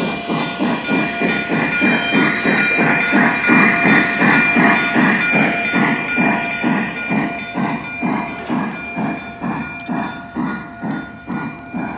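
O gauge model steam locomotive's onboard sound system chuffing in a steady rhythm, about three to four chuffs a second, with a hiss of steam. It grows louder in the middle and fades somewhat near the end.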